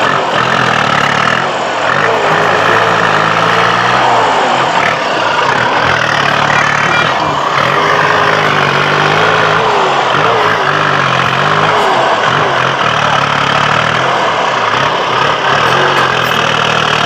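Tractor engine running under load, its pitch rising and falling as the throttle changes.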